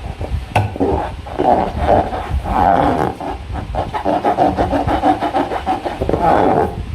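Hands squeezing and kneading slime against rubber balloons: a rasping, creaking squish in several long swells, with a sharp click about half a second in.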